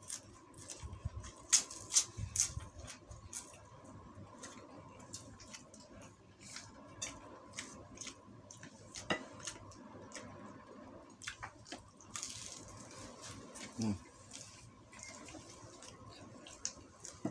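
Close-up eating sounds: wet chewing, lip smacks and sharp mouth clicks, thickest in the first few seconds, as a mouthful of rice, chicken and cracker is chewed.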